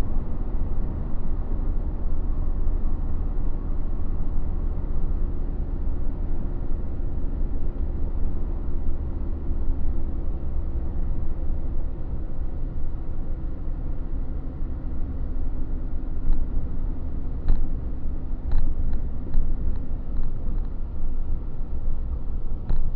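Truck engine running steadily at cruising speed with road rumble while driving. A few light clicks come in over several seconds near the end.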